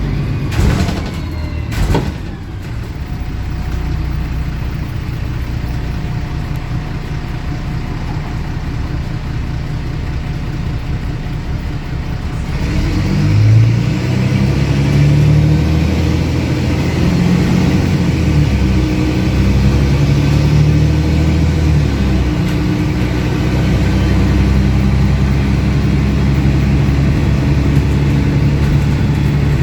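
Diesel engine of a MAN 18.220 Transbus ALX300 bus running, heard from on board, with an unusually loud exhaust. Two sharp knocks come near the start, then the engine runs steadily. About 13 seconds in it rises in pitch and grows louder as the bus accelerates, and it stays louder after that.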